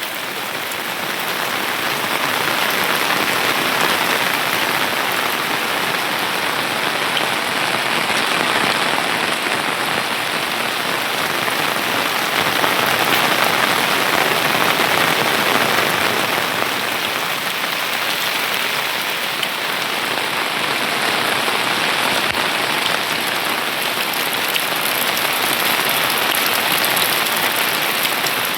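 Steady rain falling, an even hiss of raindrops that swells slightly about two seconds in and then holds.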